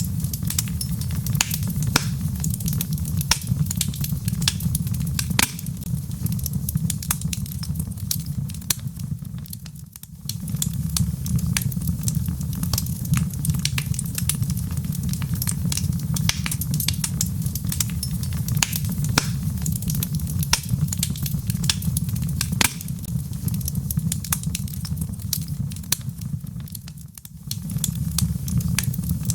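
Wood fire burning in a fireplace: a steady low rumble of flames under frequent sharp crackles and pops from the burning logs. The sound dips briefly twice, about ten seconds in and near the end.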